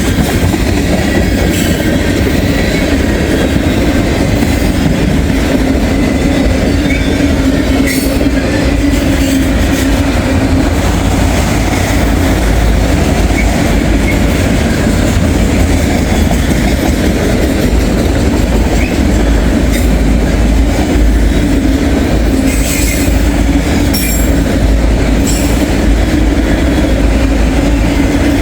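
Freight train rolling past at close range: a steady, loud rumble of moving cars with wheels clattering over the rail joints.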